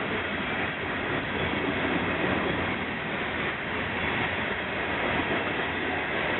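Freight train rolling past: a steady rumble and rush of the loaded ballast cars' wheels on the rails.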